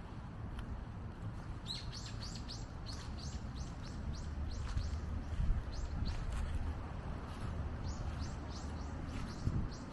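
A small songbird calling in quick series of short, high, downward-sliding chirps, several a second, starting about two seconds in, over a steady low rumble.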